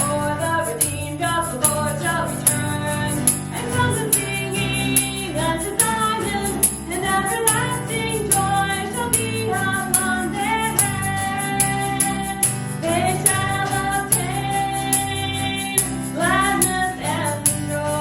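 Worship music: a sung Christmas or worship song with a female voice over held chords, and a tambourine or jingle beat ticking about twice a second.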